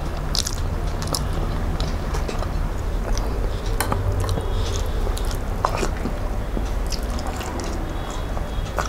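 Close-miked chewing and wet mouth smacking as a man eats rice mixed with curry by hand, with many short scattered clicks, over a steady low hum.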